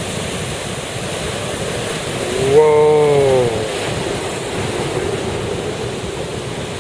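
Big surf breaking and washing in a steady roar of noise, with wind on the microphone.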